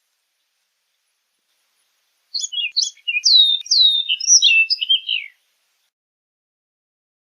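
Orchard oriole singing one fast, jumbled song phrase of about three seconds, a mix of short chips and clear downslurred whistles, starting about two seconds in.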